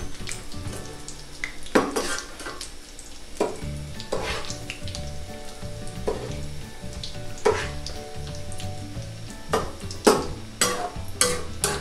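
Saba bananas frying in hot oil in a steel wok, sizzling steadily, while a slotted metal spatula scrapes and clinks against the pan about ten times, irregularly, as the bananas are turned. The sugar sprinkled on them is melting into the banana cue glaze.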